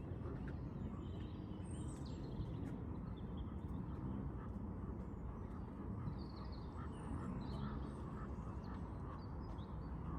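Small birds chirping and calling on and off, short high calls scattered through, over a steady low rumble of background noise.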